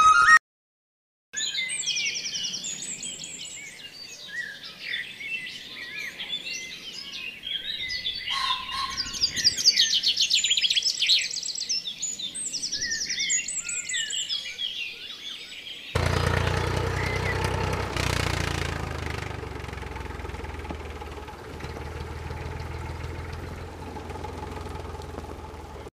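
Small birds chirping and twittering, many short calls overlapping, starting about a second in. About halfway through this cuts off and gives way to a steady low rumble with a faint hiss.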